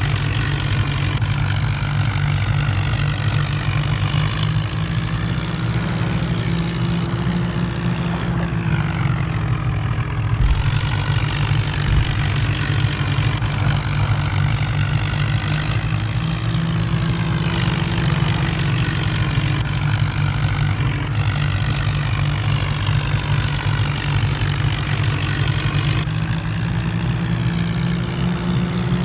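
Engine idling steadily, a continuous low running sound with a faint hum above it.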